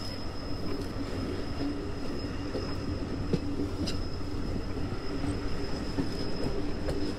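Train running on the rails: a steady rumble with a thin, steady high whine over it and a few light clicks.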